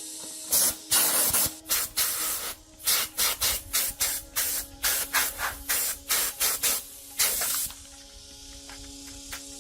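A fast run of short hissing strokes, about two to three a second, that stops near the end, typical of abrasive or spray work on metal parts.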